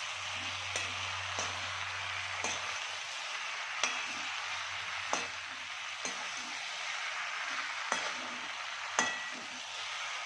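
Chilli chicken with green chillies being stir-fried: steady sizzling, with a spatula knocking and scraping against the pan about once a second. A low hum stops a few seconds in.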